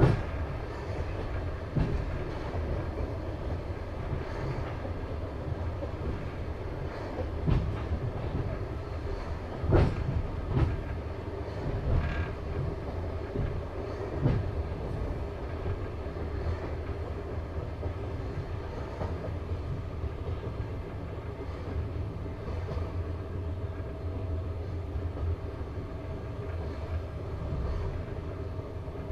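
Passenger train coach running at speed: a steady low rumble of steel wheels on the rails, with a few sharper clacks of the wheels over rail joints, most of them in the first half.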